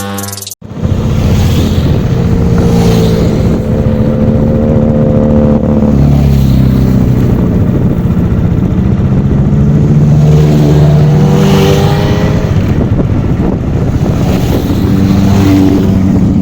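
Benelli motorcycle engine running under way, its pitch rising and falling several times as the rider goes on and off the throttle. It starts just after a burst of electronic music cuts off.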